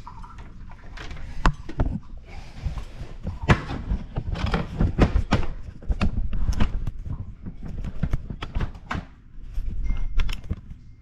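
Irregular knocks and clunks, with handling rumble, of a reverse osmosis storage tank being gripped and its dripping top fitting tightened down.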